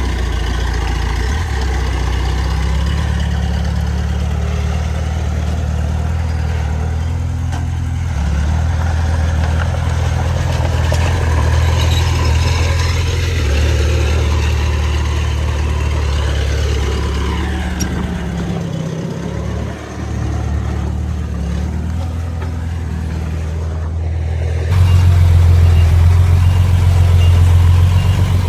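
Heavy diesel earthmoving machinery running, a steady low engine drone that rises and falls with load. About 25 s in, the sound changes abruptly and becomes louder and deeper.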